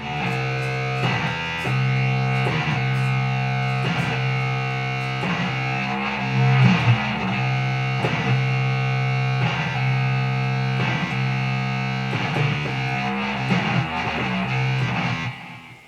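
Electric guitar with distortion playing sustained chords, re-struck about once a second, dropping off near the end.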